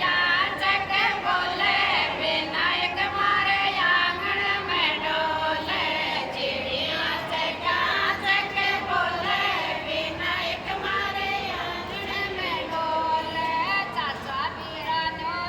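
A group of women singing a Rajasthani Marwari folk bhajan together.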